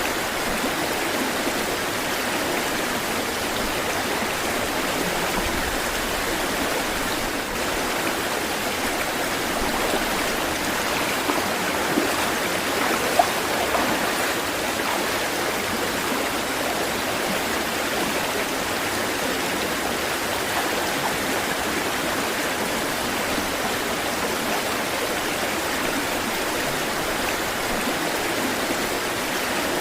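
Flowing water rushing steadily, with a few brief louder splashes near the middle.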